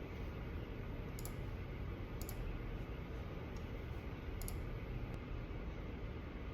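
Steady low room noise with a few light, sharp clicks at uneven spacing, some of them doubled.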